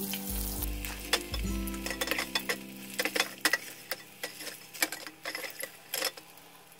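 Metal slotted skimmer clinking and scraping against a stainless steel saucepan in a series of sharp, irregular knocks as fried mushrooms are scooped out of the oil, over background music.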